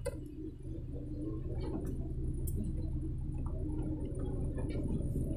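Car engine running steadily as the car moves slowly, heard from inside the cabin as a low drone, with a few faint clicks.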